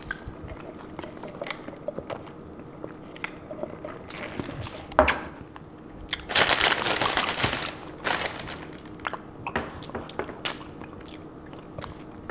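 Close-up eating sounds of someone chewing a burrito, with small wet clicks and mouth noises. There is a longer burst of hiss about six seconds in.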